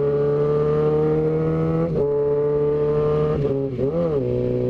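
Motorcycle engine running hard at highway speed, its note climbing slowly under throttle. It dips briefly about two seconds in, then drops and rises again a little after three and a half seconds as the revs come off and go back on.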